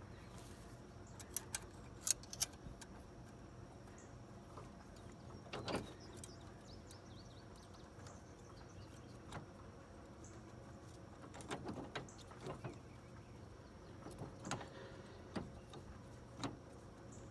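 Scattered metal clinks and knocks from parts and tools being handled while a broken mower quick-hitch coupling is fitted by hand, with a faint steady low hum underneath.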